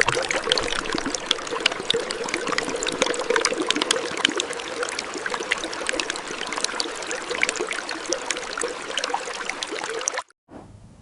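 Water pouring and splashing steadily from a miniature water pump's outlet, a dense run of small irregular splashes; it cuts off abruptly near the end.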